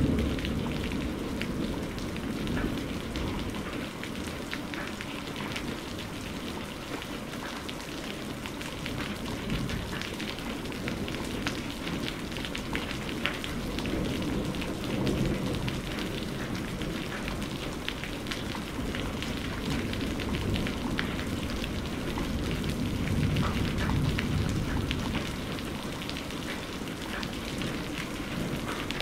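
Steady rain pattering with many scattered drop splashes, under low rumbles of distant thunder: one dies away in the first second, and fainter rolls swell about halfway through and again past two-thirds.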